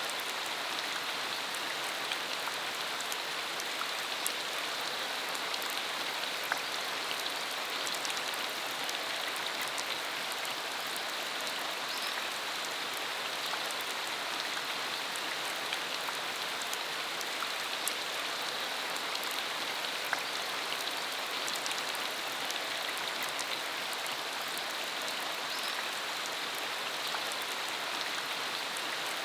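Steady rain falling, an even hiss with scattered individual drops ticking now and then.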